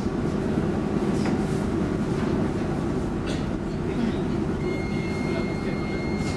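Steady rumble of an X10 electric commuter train running, heard from inside the carriage, with a faint high steady whine coming in about two-thirds of the way through.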